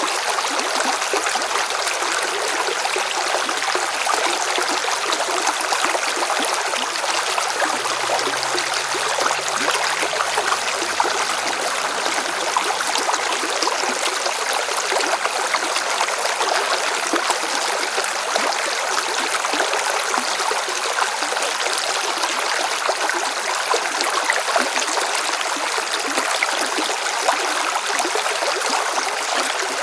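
River water splashing and rushing over rocks in a steady, unbroken flow.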